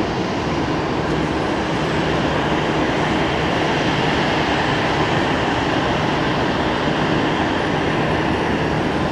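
Jet aircraft engines on takeoff: a loud, steady rushing rumble that builds slightly over the first two seconds and then holds.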